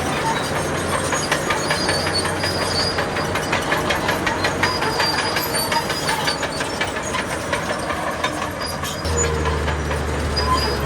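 Crawler bulldozer running on its steel tracks: an even, rapid clanking of the track links, about five a second, over the diesel engine. The low engine drone comes back strongly near the end.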